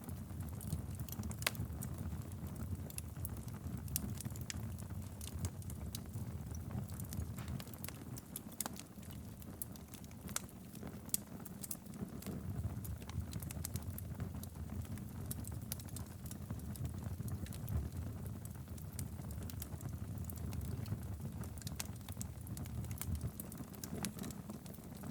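Fireplace wood fire burning, with a low steady rumble and irregular sharp crackles and pops.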